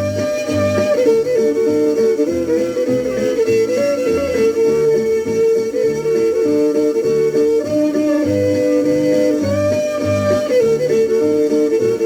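Country band's instrumental break played from a 78 rpm record. A sustained, sliding lead melody rides over a bouncing bass and plucked rhythm guitar, with no singing.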